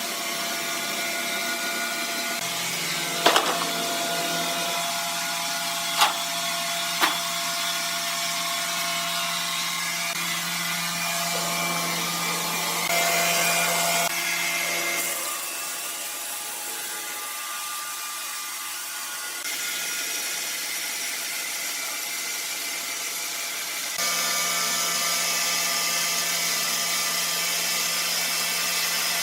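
Sawmill machinery running steadily with a whining hum and hiss, with three sharp knocks in the first seven seconds. The level jumps up or down abruptly a few times.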